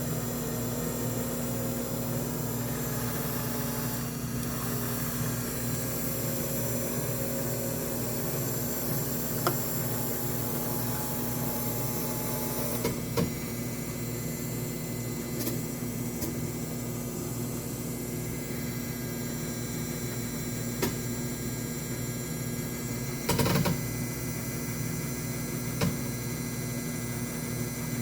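Mini washing machine's small motor running with a steady hum, with a few light knocks, the loudest about three-quarters of the way through.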